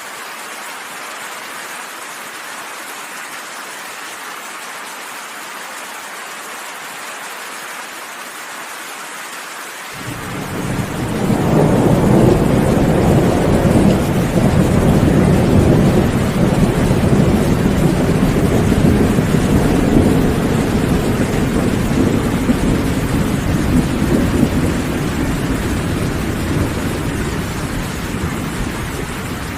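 Steady rain falling, then about ten seconds in a long rolling thunder rumble builds over a couple of seconds and slowly dies away under the rain.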